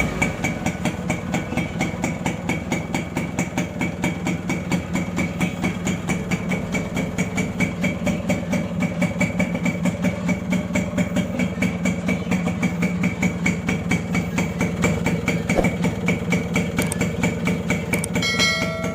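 Yamaha RS100's single-cylinder two-stroke engine idling steadily, with a regular pulsing beat.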